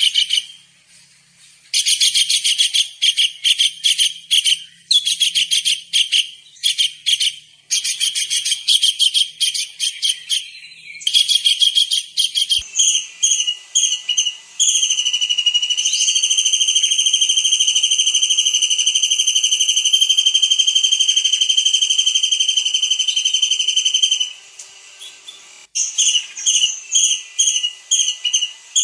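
Kingfisher (tengkek udang) calling loudly in bursts of rapid, high-pitched trilled notes, broken by a long steady shrill whistle of about ten seconds in the middle, then trilling again.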